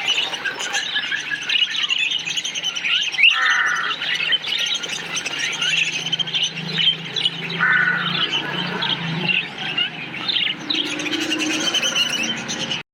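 A colony of parakeets chirping, many birds calling over one another at once, with a few louder squawks standing out. The sound cuts off suddenly near the end.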